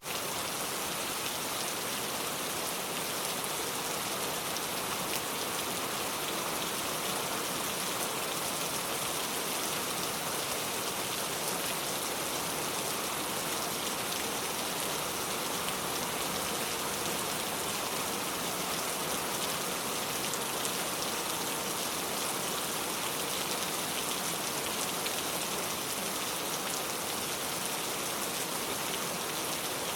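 Steady rain falling, a constant hiss with the patter of many drops hitting surfaces.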